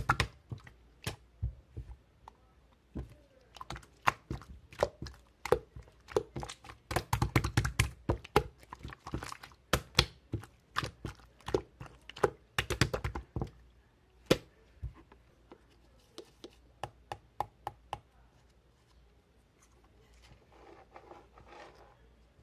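Irregular sharp clicks and knocks, close together for most of the first dozen seconds, then thinning out. A faint soft rustle follows near the end.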